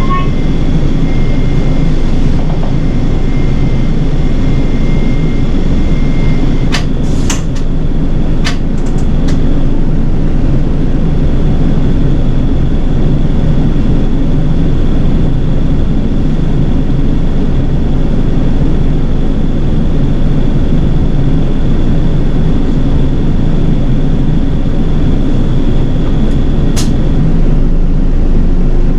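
City bus under way, its engine and road noise making a steady low rumble, with a faint steady high tone and a few sharp clicks, a cluster of them about seven to nine seconds in and one more near the end.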